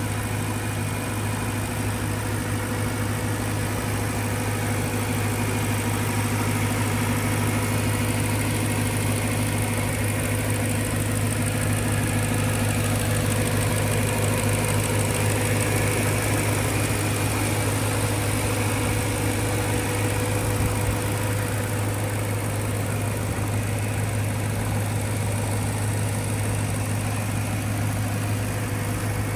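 2011 BMW E90 M3's 4.0-litre V8, fitted with a dry carbon Eventuri plenum and Macht Schnell intake, idling steadily with a low, even hum and no revving.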